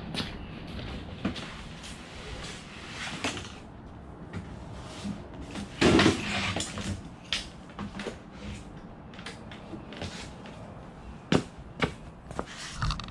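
Scattered knocks and clunks, with a louder rushing burst about six seconds in and two sharp knocks near the end.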